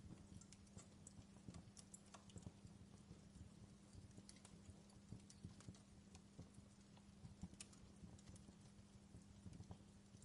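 Faint wood fire crackling, with irregular small pops and snaps over a steady low hum.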